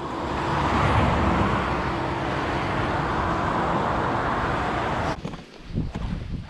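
A motor vehicle running close by: a steady noise that swells over the first second and cuts off abruptly about five seconds in.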